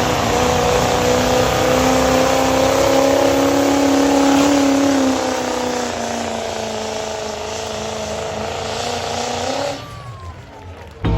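Diesel pulling truck engine running hard at high revs under load, its pitch rising slightly and then sagging. The sound eases off about halfway through and falls away sharply near the end.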